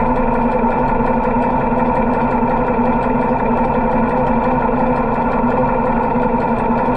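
Motorcycle engine running steadily at an even speed, its pitch holding constant throughout.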